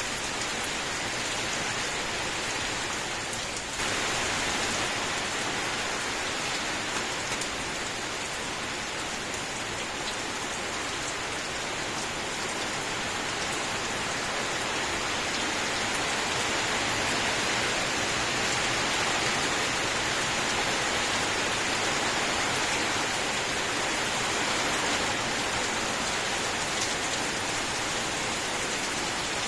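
Steady rain falling, a dense even hiss of drops that steps up slightly in loudness about four seconds in.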